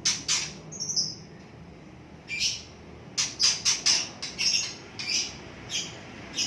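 Small cage bird giving repeated short, harsh squawks of distress while it is cut open to remove a fatty lump, the calls coming in quick runs with brief gaps.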